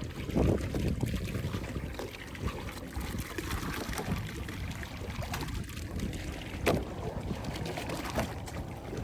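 Water sloshing and trickling against a boat's hull, with a few scattered knocks, the loudest about two-thirds of the way through.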